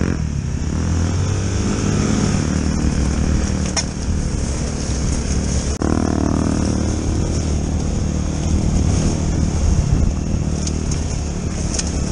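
Trail motorcycle engine running steadily as the bike rides over a gravel track, with a hiss of wind and gravel over it. A brief break about six seconds in.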